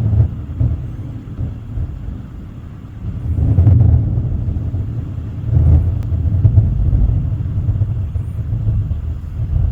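Thunder rumbling from a nearby storm, a deep rolling rumble that swells loudly twice, about three seconds in and again near the middle.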